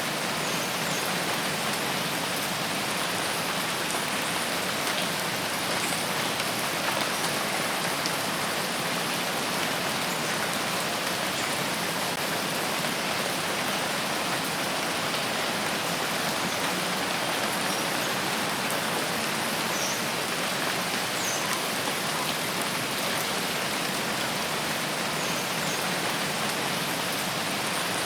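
Steady rain falling in a forest: an even, unbroken hiss of rainfall.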